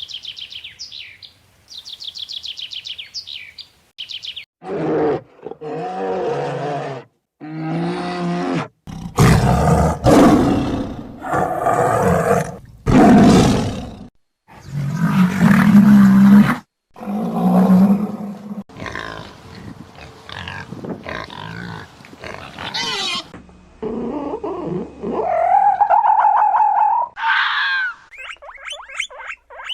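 A run of animal recordings: a bird's fast, high trill at the start, then a series of loud roars and growls from large wild animals, one call after another, ending in a rising call and a rapid high chatter.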